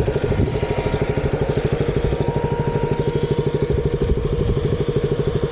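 Motorcycle engine running at a steady speed while riding, with a fast, even pulsing beat and a steady pitch.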